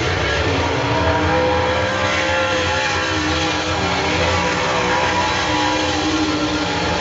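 A pack of super late model race cars' V8 engines running at racing speed, several engine notes rising and falling as the cars throttle up and pass.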